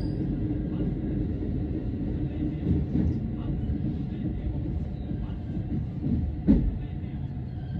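Electric commuter train running along the track, heard from inside the front car: a steady low rumble of wheels and motors, with a single sharp knock about six and a half seconds in.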